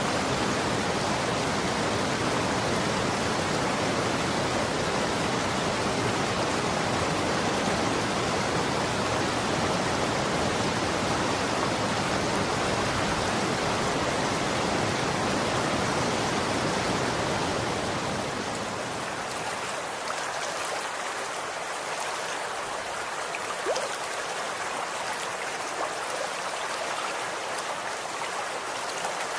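Running water: a full, steady rush of flowing water that about 18 seconds in changes to a lighter, thinner splashing with the low rumble gone and small drips and ticks showing through.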